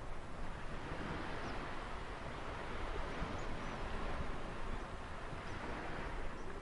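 Ocean surf: a steady wash of waves that swells a little in the middle, with a few faint high chirps over it.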